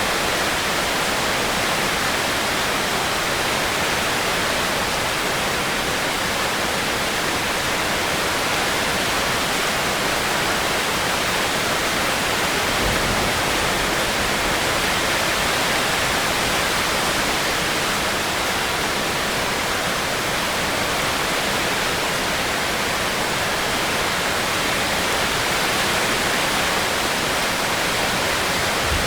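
Heavy rain falling steadily as an even hiss, with a brief low rumble about halfway through.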